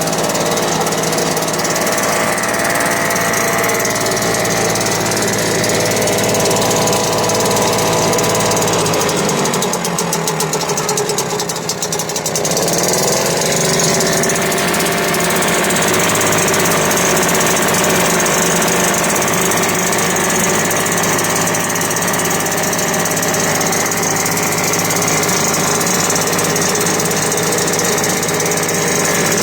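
1971 British Seagull Silver Century single-cylinder two-stroke outboard motor running steadily. About ten seconds in it slows and dips, then picks back up and holds its speed again. The owner calls it running excellently after a carburettor cleaning.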